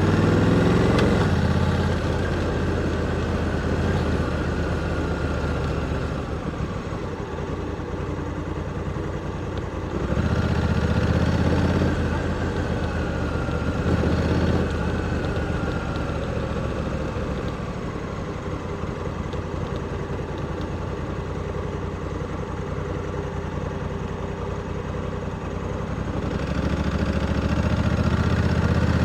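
Honda Africa Twin 1100's parallel-twin engine riding at low speed: it pulls harder briefly near the start and again about ten seconds in, rolls off between, and picks up with rising revs near the end.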